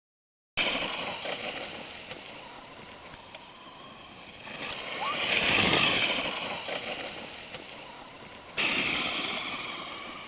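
Radio-controlled Traxxas Stampede XL-5 monster truck driving in snow: its electric motor and tyres running, growing louder to a peak about halfway through, then fading.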